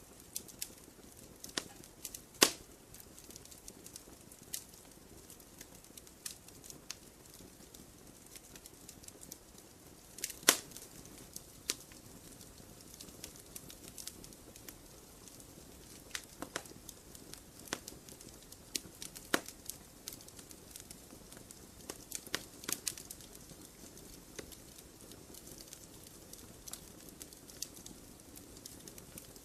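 Campfire burning: wood crackling and popping at irregular intervals over a soft hiss, with two sharper pops about two and a half seconds and ten and a half seconds in.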